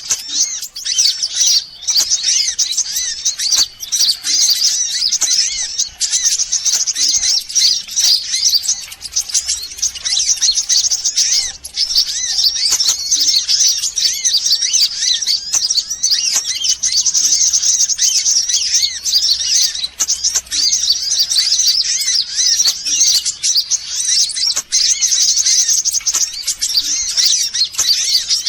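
Dense, continuous high-pitched chirping and trilling of sunbirds, several calls overlapping with no pause: a bird-catcher's lure recording.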